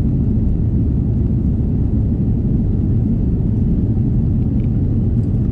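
Airbus A330 cabin noise: a steady low rumble from the airliner's engines and airflow, heard from inside the passenger cabin.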